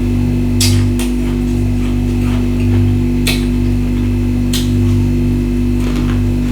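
Several sharp crunches of natural ice being bitten and chewed, over steady background music with a slow pulsing low note.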